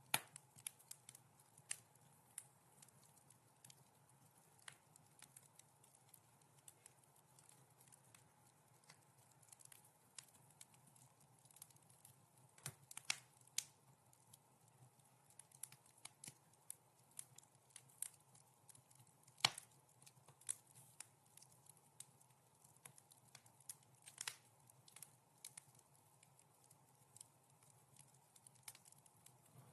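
Wood fire crackling softly: irregular sharp pops and snaps over a faint steady low hum, with a few louder pops, the loudest about two-thirds of the way through.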